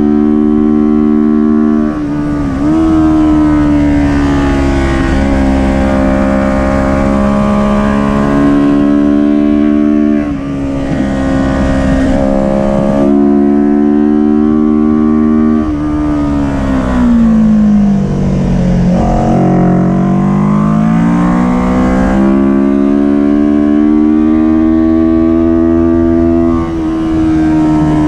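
Kawasaki Ninja 400 parallel-twin engine run hard at high revs on a race lap, its pitch held high and dropping sharply at several gear changes. About two-thirds through it falls steadily as the bike slows into a corner, then climbs again as the throttle opens.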